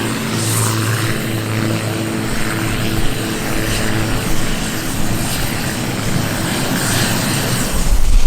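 Propeller aircraft passing, its engines giving a steady droning tone with overtones that fades near the end, when a low rumble of wind on the microphone takes over.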